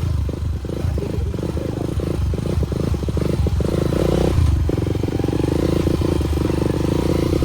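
Motorcycle engine running under way, a steady fast chug of firing pulses that gets a little louder over the first few seconds.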